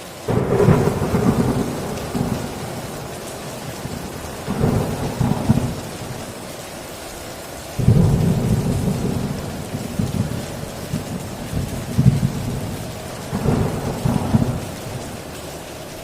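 Heavy steady rain with thunder rumbling in four separate rolls, the first and the third beginning abruptly.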